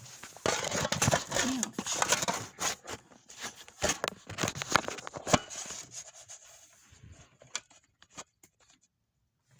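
Handling noise: rustling with a quick run of knocks and clatter as things are moved about and set down, thinning to a few scattered clicks toward the end.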